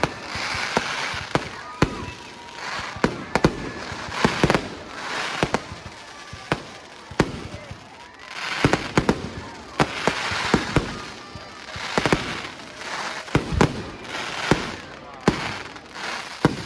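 Aerial fireworks display: a rapid run of loud shell bursts, sharp bangs every second or so, each followed by swells of crackling.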